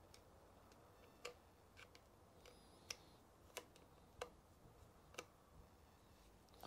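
A series of faint, sharp clicks or ticks, roughly one every second or less, over quiet workshop room tone.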